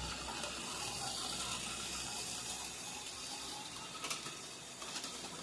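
Tyco model train running on the layout track: a steady whirring rattle of the locomotive motor and wheels on the rails, with a low hum underneath and a couple of sharp clicks about four and five seconds in.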